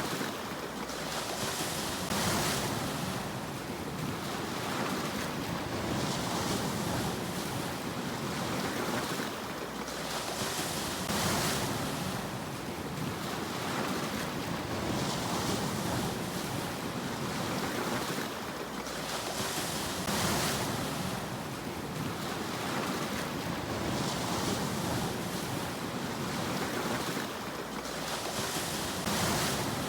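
Sea waves breaking and washing in, a steady rush that swells with a fresh surge about every nine seconds.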